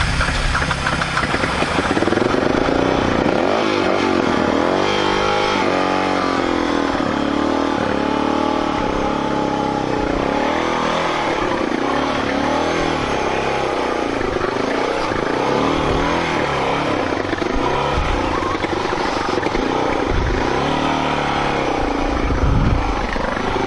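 Off-road motorcycle engine revving up and down over and over, its pitch rising and falling every second or two.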